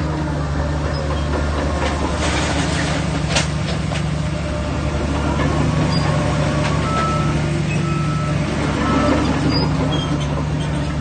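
Heavy diesel earthmoving machinery running steadily, a bulldozer working alongside dump trucks. A hiss about two to three seconds in, and a few short high beeps in the second half.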